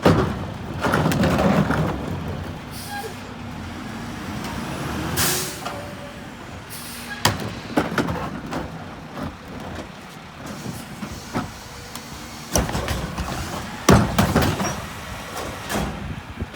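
Mack MRU rear-loader garbage truck running, with a short sharp hiss of released air about five seconds in. Several knocks and a stretch of clattering follow in the later part.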